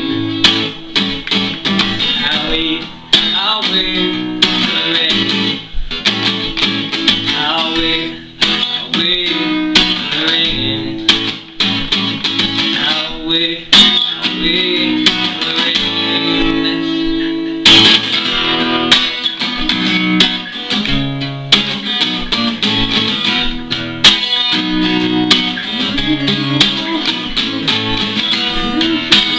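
Acoustic guitar music, plucked and strummed, playing through a song.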